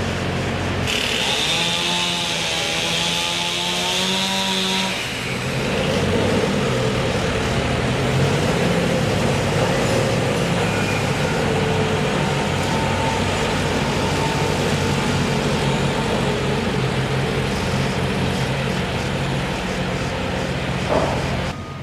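Large engine running steadily, with a wavering, higher-pitched machine sound layered over it for the first few seconds and a single sharp knock near the end.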